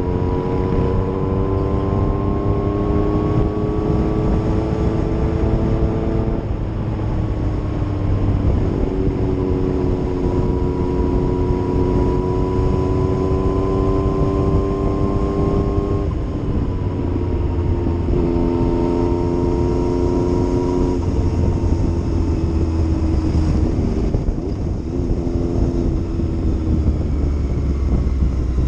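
Yamaha MT-09's inline-three engine under way, its note climbing steadily in each gear and dropping sharply at each upshift, four times.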